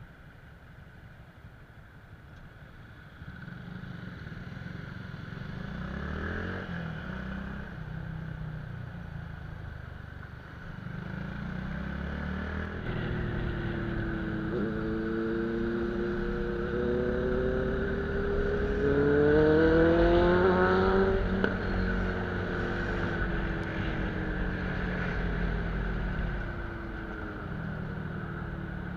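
Motorcycle engine, quiet at first and then pulling away and accelerating: its pitch climbs in steps through several gear changes and is loudest about two-thirds of the way through, over a steady low road rumble.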